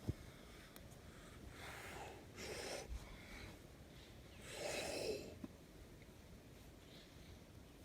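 A man breathing heavily, a few soft puffs of breath with the loudest about five seconds in, over faint outdoor background.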